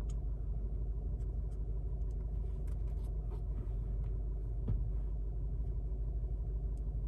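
Steady low rumble of the VW CC's engine idling, with a few faint clicks over it.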